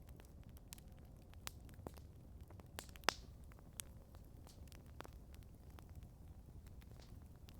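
Wood campfire crackling: scattered sharp snaps and pops at an irregular pace, with one louder pop about three seconds in, over a low steady rumble.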